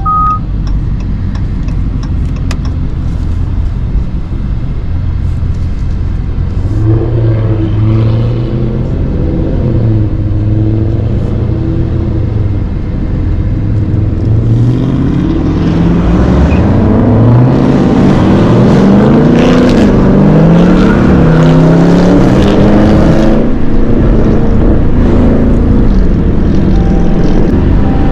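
Muscle car V8 engine running, holding a steady note, then revved repeatedly from about halfway in, the pitch rising and falling with each rev and getting louder.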